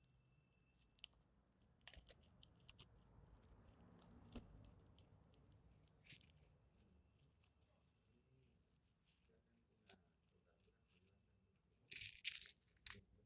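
Small batch of slime being pressed and worked by hand: a steady scatter of quick, sticky clicks and crackles, with a louder flurry of crackling near the end.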